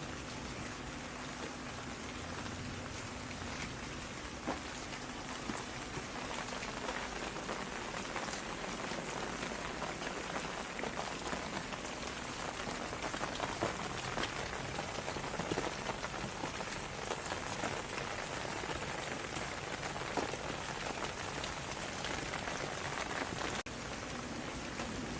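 Steady rain falling, with many single drops standing out as short ticks against the even hiss. It drops out for an instant near the end.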